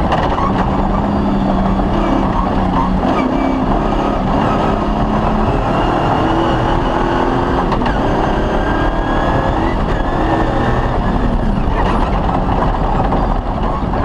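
Off-road rally car engine running under way, with a dense rumble of tyre and chassis noise. The engine note holds steady for about five seconds, then shifts higher and varies as the throttle changes.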